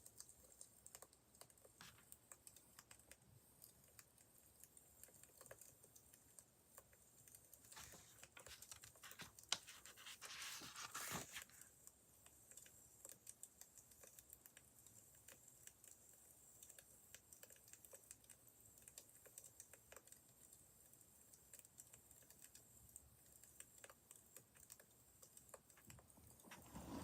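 Wood fire crackling faintly, with scattered irregular small pops and a louder rush of hissing noise between about eight and eleven seconds in.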